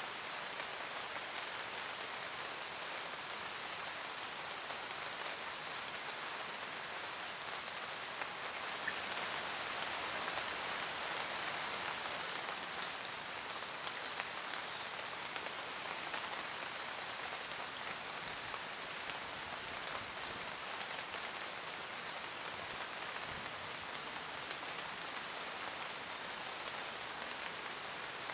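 Steady rain falling in a forest, a dense patter of raindrops with scattered individual drop ticks, swelling slightly in the middle.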